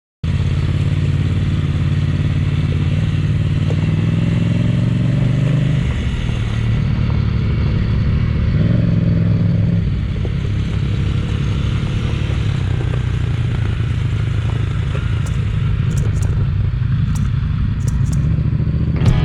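Motorcycle engine running, its revs rising and dropping twice.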